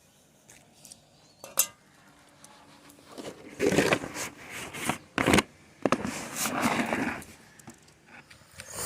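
Household containers being handled: a sharp click, then several spells of clattering and scraping, like a dish or bowl being moved about.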